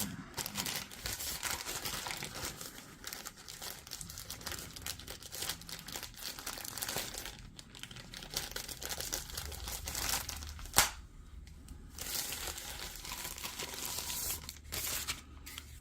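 Packaging crinkling and tearing as vacuum cleaner parts are unwrapped by hand, in irregular rustling handfuls, with one sharp click about eleven seconds in.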